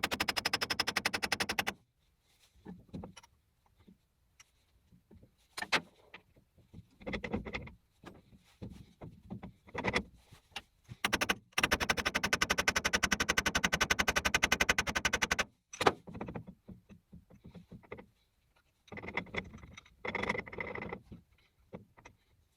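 A rapid, even mechanical rattle in two bursts, one about two seconds long at the start and one of nearly four seconds about halfway through, with scattered knocks and scrapes between.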